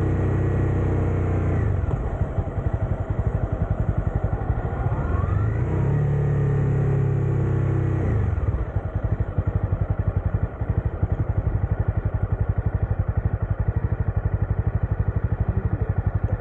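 Motorcycle engine running under the rider. Its pitch falls as it slows about two seconds in, rises again with a brief acceleration around five seconds, then drops about eight seconds in to a low, evenly pulsing beat.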